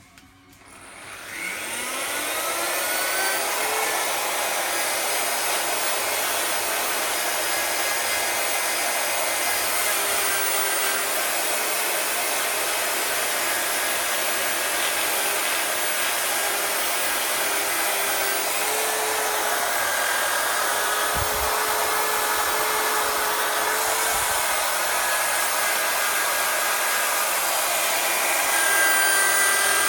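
Handheld electric power tool with a polishing attachment, working on an engine case: it spins up with a rising whine about a second in, then runs steadily with a rough, hissing scrub.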